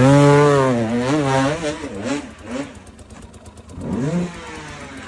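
Motocross dirt bike engine revving hard, its pitch wavering and then falling away, with a second shorter rev-up and drop about four seconds in.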